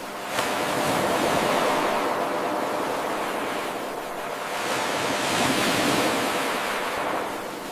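Ocean waves washing ashore, swelling and ebbing twice. A brief click about half a second in marks the restart of the 8-second wave loop.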